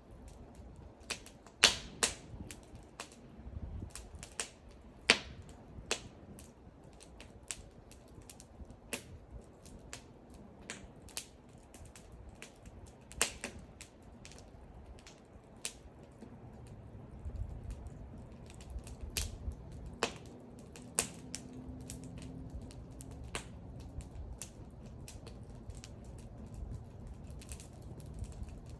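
Wood fire crackling: irregular sharp pops and snaps, a few of them loud, over a soft low rumble of the burning.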